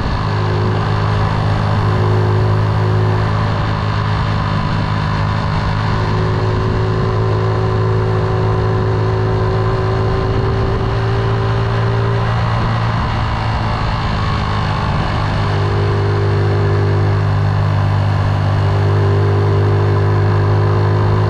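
Motorcycle engine running steadily while riding, a strong low drone with an even pitch. The drone eases off briefly about halfway through, then comes back.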